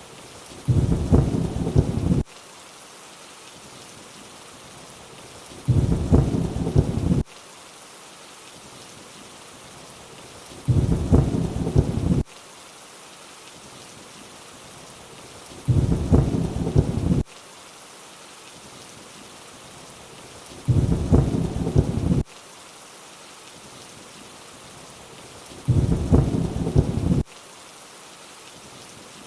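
Steady rain with a short rumble of thunder every five seconds, six times. Each rumble stops suddenly, and the regular spacing sounds like a looped thunder clip.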